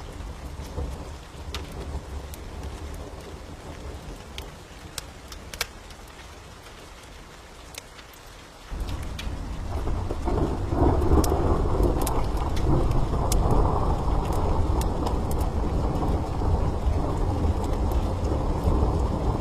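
Steady rain with scattered sharp pops; about nine seconds in, a loud thunder rumble breaks in suddenly and keeps rolling.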